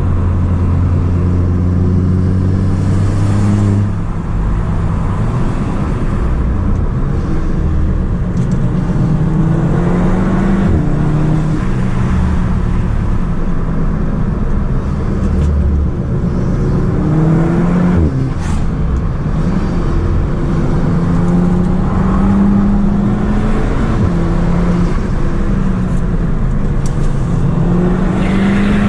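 Audi S3 8P's turbocharged 2.0 TFSI four-cylinder engine, fitted with an aftermarket downpipe, pulling hard through the gears: the note rises, drops at each gear change, and rises again, over and over.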